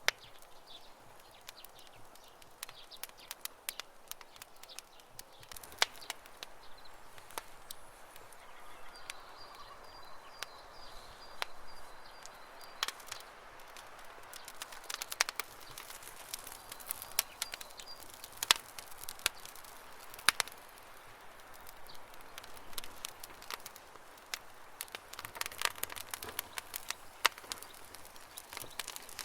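Campfire crackling, with irregular sharp pops and snaps over a soft hiss. A faint high bird trill is heard from about nine seconds in.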